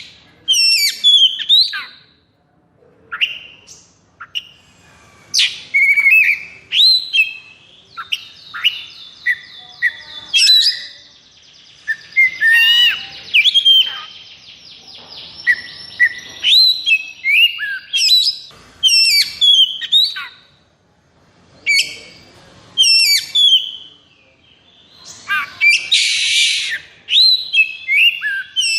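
Oriental magpie-robin (kacer) singing a loud, fast, varied song of whistled, sweeping phrases with short gaps, in the aggressive 'konslet' style of an aroused male. A rapid buzzing trill comes about a third of the way in, and a harsh rasping burst comes near the end.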